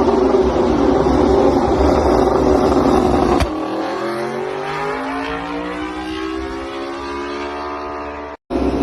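MotoGP race bike engines. A loud, dense engine noise runs for about the first third, then cuts abruptly to a single bike's four-cylinder engine rising steadily in pitch as it accelerates, followed by a brief dropout near the end.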